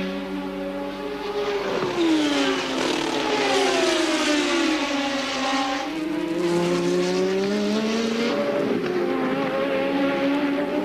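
Early-1980s Formula One race car engines at racing speed. The engine note falls for a few seconds, then climbs again about halfway through, with a second engine note heard underneath.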